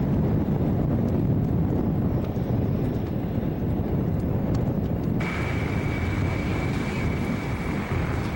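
Wind buffeting the microphone as a steady low rumble. About five seconds in, a thin steady high-pitched tone sets in.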